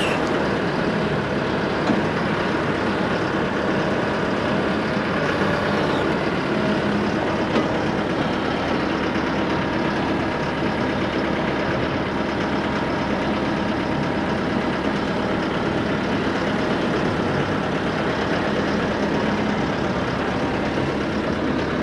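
A heavy engine idling steadily at an even speed, with a couple of light knocks.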